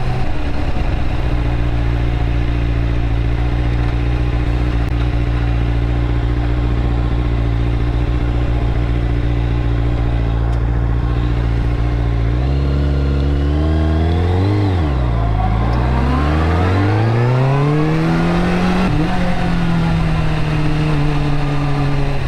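Motorcycle engine running at steady revs for about twelve seconds, then rising in pitch, dipping briefly and climbing again as it accelerates, settling at higher steady revs near the end, over a constant rush of wind noise.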